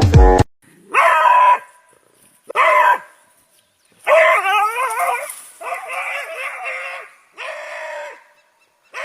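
A dog howling and whining in a series of drawn-out, wavering calls, each rising and falling in pitch, with short silent pauses between them.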